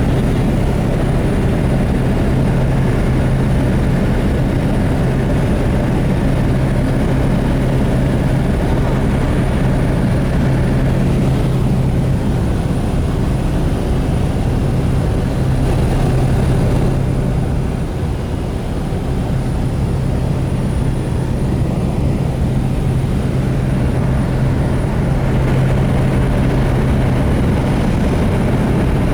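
Small propeller aircraft's engine and propeller running with a steady low drone, dipping slightly in level a bit over halfway through.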